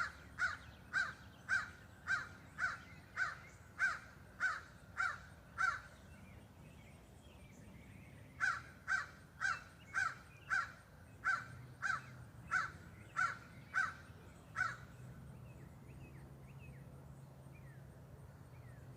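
Crows cawing in a steady run of loud caws, about two a second, a pause of a couple of seconds, then a second run of a dozen caws before they fall quiet; they are agitated, upset about something.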